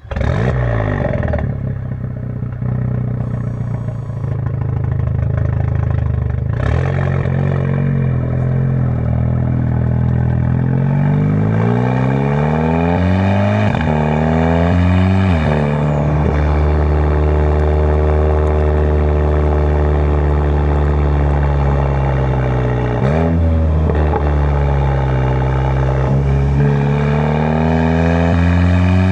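Volkswagen Mk7 GTI's turbocharged 2.0-litre four-cylinder, breathing through an ARM Motorsport 4.5-inch downpipe, pulling under acceleration. The engine note climbs slowly and then drops sharply at gear changes, about halfway through, again a couple of seconds later, once more about two-thirds of the way in, and near the end.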